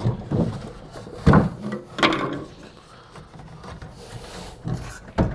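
Wooden sauna backrest and bench boards being handled and fitted into place: a series of knocks and wood sliding against wood, the loudest knock about a second and a quarter in.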